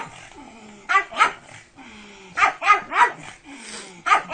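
Pug barking in short, sharp clusters: two barks about a second in, a quick run of three around two and a half to three seconds, and another starting at the very end.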